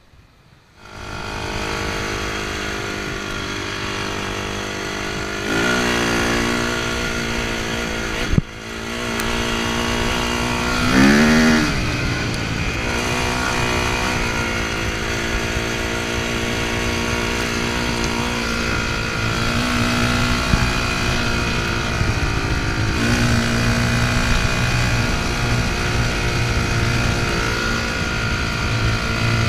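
Dirt bike engine running. It comes in about a second in, revs up around six seconds and again around eleven seconds, with one sharp click near eight seconds, then runs at a steady pace as the bike rides.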